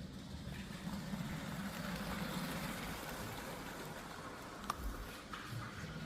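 Motorised Lego train running along plastic track, its motor and wheels whirring, growing louder and then easing off as it passes. There is a single sharp click near the end.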